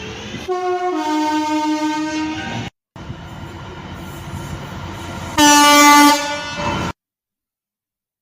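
Train horns: a loud two-tone blast that steps from a higher note to a lower one and holds for about two seconds, then after an abrupt cut the rumble of a passing train with a second, louder horn blast of under a second. The sound cuts off suddenly about seven seconds in.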